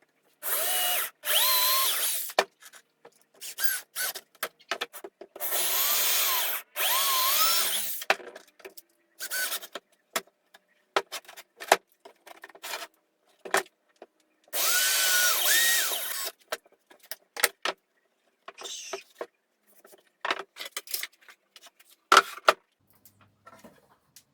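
Electric drill run in short bursts of one to two seconds, its motor whine rising and falling in pitch with the trigger, with short clicks and knocks of wood and tool handling between the runs.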